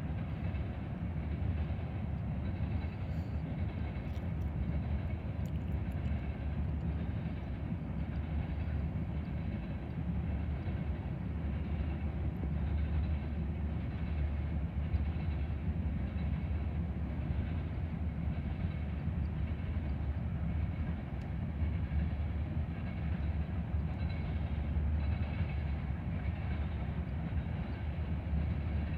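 Empty tank cars of a CSX unit freight train rolling past: a steady rumble of steel wheels on the rails.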